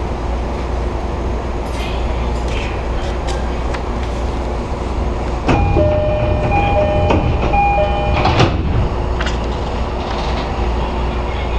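Electric commuter train's steady low rumble with scattered short clicks. About halfway through, a few seconds of electronic tones at two or three pitches switch on and off, then stop.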